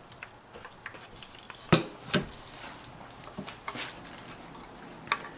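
Scattered metallic clicks and knocks of engine parts and tools being handled as the intake plenum is set down onto the engine, with two louder knocks about two seconds in.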